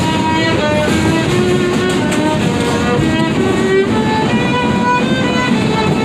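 Violin playing a continuous melody of sustained notes, performed live by a musician riding the subway train.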